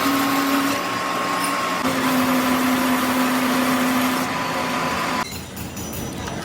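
A workshop machine running steadily with a loud hiss and a few steady tones, cutting off abruptly about five seconds in.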